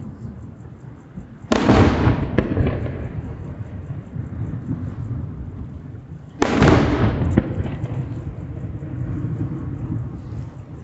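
Aerial firework shells bursting: two loud booms, about a second and a half in and again about five seconds later, each trailing off in a long echo, with a smaller sharp crack about a second after each.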